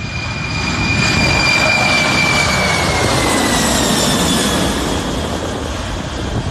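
Toy airplane playing a jet-engine sound effect: a steady rushing noise with a high whine that slowly drops in pitch, like a jet passing by.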